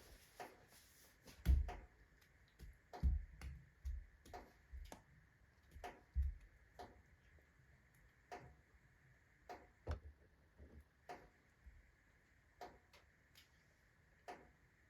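Fire in a wood-burning stove crackling as a rotten, fungus-decayed log burns on hot embers: irregular sharp pops, about one or two a second, a few of them louder with a dull thump.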